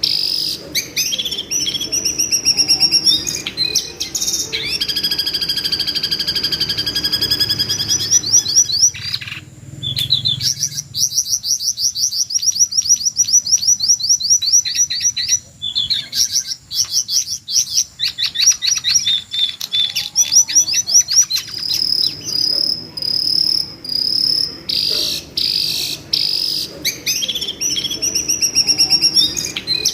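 Jongkangan bird calling in long, high, rapid trills, each held for a few seconds and repeated over and over: the screaming call played as training audio for white-rumped shamas.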